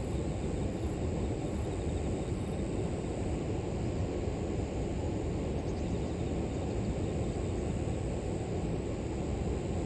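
River water flowing: a steady low rush, with faint insects chirping high above it.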